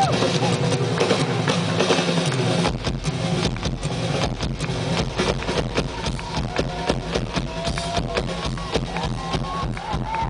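Live rock drum kit solo: rapid strokes on drums and cymbals, with a fast steady bass-drum pulse coming in about three seconds in.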